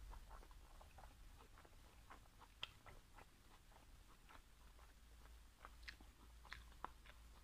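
Faint close-up chewing of steamed pork momo: soft, wet mouth clicks and smacks at an uneven pace, with a few sharper clicks.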